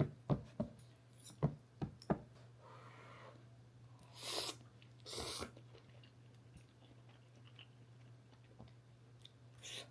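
A quick run of sharp clicks or taps, one every third of a second or so, stopping about two seconds in. Then two short hissing rustles about four and five seconds in and another near the end, over a low steady hum.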